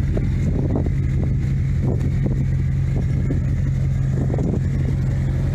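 A motor vehicle engine running steadily with a constant low hum, with a few light, irregular knocks over it.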